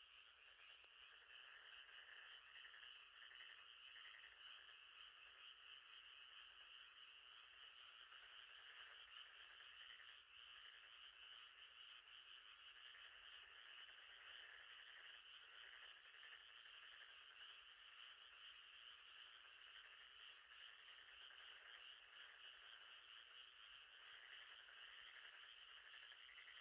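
Faint, steady night chorus of frogs calling, a dense unbroken trilling that keeps up without a break.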